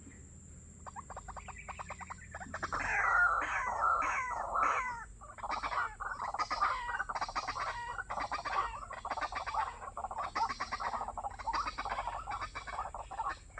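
White-breasted waterhen calling: a fast run of clicking notes about a second in, breaking into a long series of repeated harsh croaking calls that are loudest a few seconds in and go on throughout.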